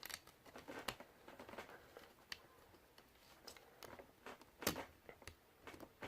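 Faint scattered clicks and taps of the hard plastic parts of a Transformers Titans Return Misfire figure being handled and worked into place during transformation, with one louder click about four and a half seconds in.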